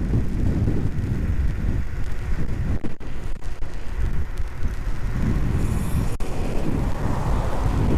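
Wind buffeting the microphone of an electric scooter rider, a loud low rumble that gusts up and down.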